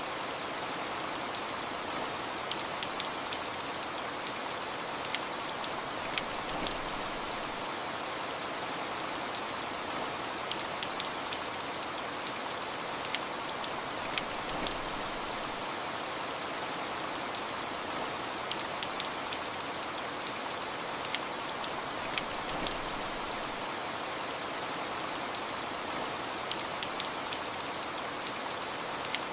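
Steady rain falling, with a constant hiss and many individual drops pattering sharply on a surface.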